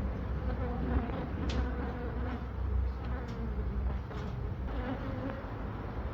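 Honeybees from a colony cut open inside a wall, buzzing in a wavering drone, with a low rumble underneath and a few faint clicks.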